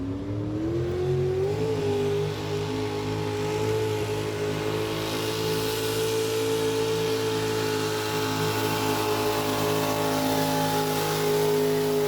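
Pulling vehicle's engine revving up over about a second and a half, then held at a steady high rpm as it pulls down the track.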